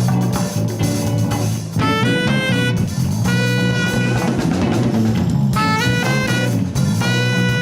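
Latin fusion band playing: drum kit and bass under a horn lead that climbs in a short stepwise run and then holds a long note, twice.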